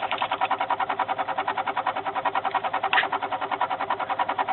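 Fast, even chattering clicks from a car's starter solenoid as the key is held to start. The battery is too flat to crank the engine, so nothing turns over. The chatter stops near the end.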